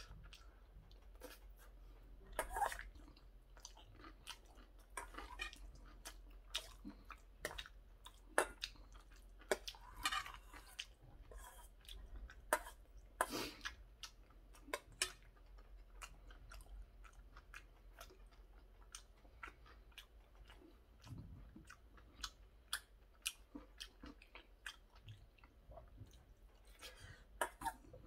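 A person chewing a mouthful of curry rice with wet smacking mouth sounds, and a metal spoon now and then clinking and scraping against a stainless steel bowl.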